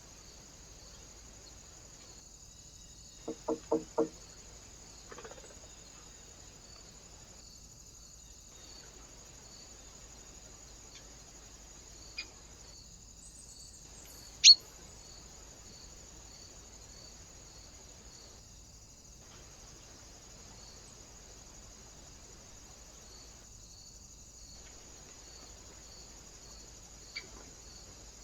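A faint steady high hiss with a light regular ticking runs through. A few seconds in come four quick harsh calls, and later there are a few sharp taps or knocks, the loudest one about halfway.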